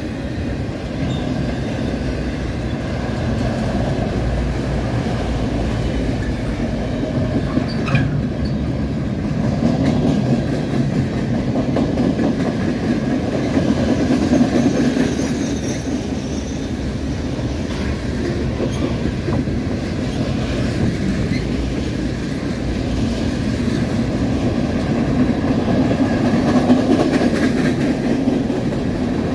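Norfolk Southern mixed freight train's cars rolling past at close range: a steady rumble of steel wheels on the rails.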